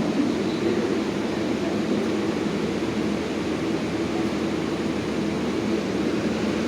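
Steady low rumble and hiss of a New York City subway train, with no distinct knocks or announcements.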